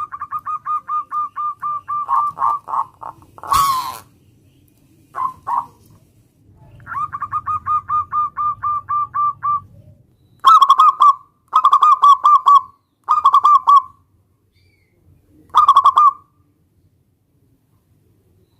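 Zebra dove (perkutut) singing: runs of quick, evenly spaced cooing notes, about six a second, then several louder short bursts near the middle. A sharp knock sounds about three and a half seconds in.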